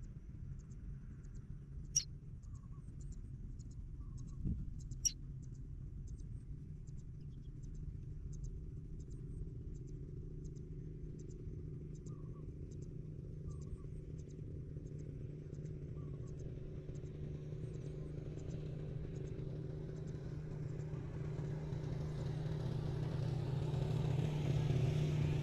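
A motor vehicle's engine running with a steady low hum that grows louder toward the end, as if approaching. Faint high chirping ticks repeat about twice a second through most of it, with two sharp clicks early on.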